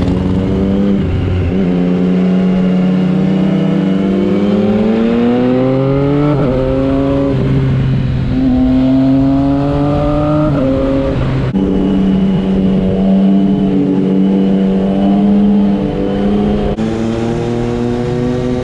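Triumph Street Triple 675 RX's inline three-cylinder engine pulling through the gears. The pitch climbs, falls at an upshift about six seconds in, climbs again to about eleven seconds, then drops and holds steady.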